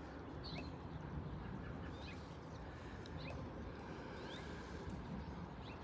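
Birds chirping, short scattered calls over a steady low hum of outdoor background noise.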